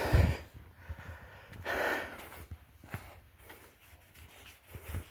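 A person breathing heavily, with a loud breath out about two seconds in and a low bump at the start.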